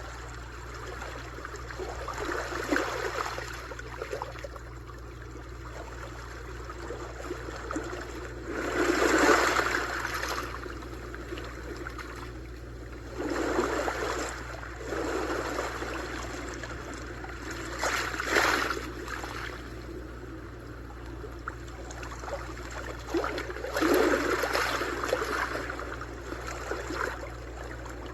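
Sea waves washing in, swelling up and falling back every four to five seconds, with the loudest wash about nine seconds in. A steady low rumble runs beneath.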